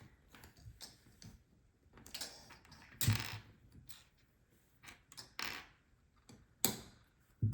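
Plastic Lego pieces clicking and rattling as they are handled and pressed together: a scattering of sharp clicks and short rustles, the loudest about three seconds in.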